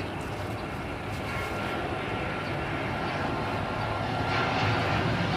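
Jet airliner's engines growing steadily louder as the plane approaches, with a faint steady whine over the rumble.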